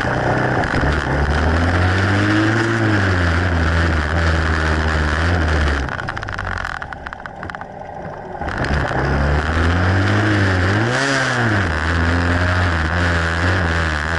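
A 125cc motorcycle engine running on the road, its pitch rising and falling as it revs through the gears, over a steady rushing noise. About halfway through the engine falls away for a couple of seconds, then picks up and revs again.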